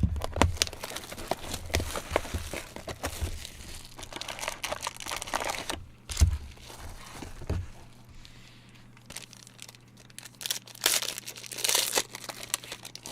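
Plastic and foil packaging on sealed trading card boxes being torn open and crumpled by hand: crinkling and tearing with small clicks, a low thump about six seconds in, and a louder rustle near the end.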